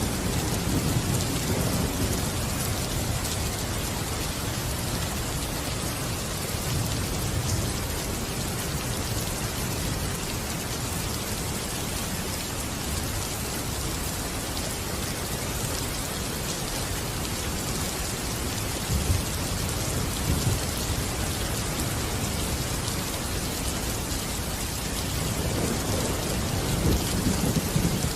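Steady rain falling, with low thunder rumbling that fades away at the start and swells up again near the end.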